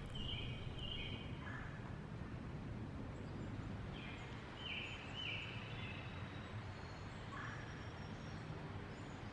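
Woodland birds calling over a steady low background rumble: a few short, stepped calls near the start, again around the middle, and once more near the end.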